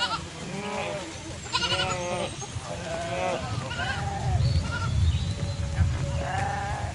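A flock of livestock bleating, many short wavering calls overlapping one another, with a low rumble underneath from about four seconds in.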